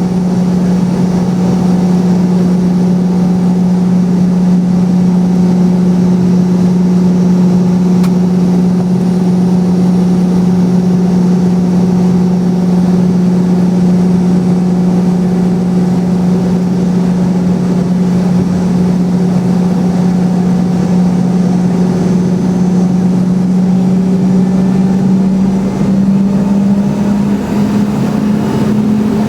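Boeing 717's rear-mounted Rolls-Royce BR715 turbofans running at idle, heard from inside the cabin: a loud steady hum that creeps up slightly in pitch near the end.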